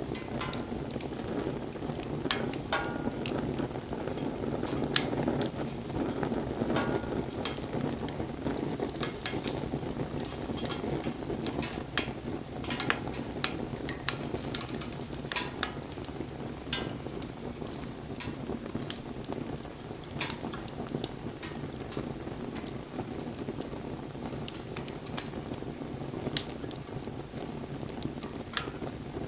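Wood fire burning: a steady low rush of flames with frequent sharp crackles and pops throughout.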